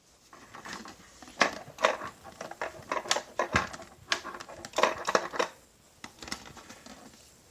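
A run of irregular sharp clicks and knocks with some rattling between them, which then dies away about six seconds in.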